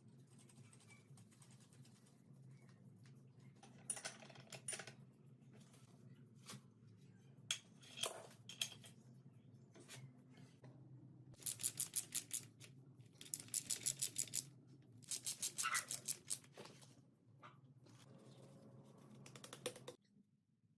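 Three short runs of rapid, even clicking, about eight to ten clicks a second, in the second half, with scattered single clicks and knocks before them, over a steady low hum.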